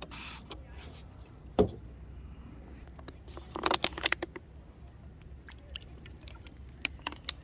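A short spray hiss of dish-cleaning spray on a pan, then scattered knocks and clicks as the pan is handled and scrubbed clean.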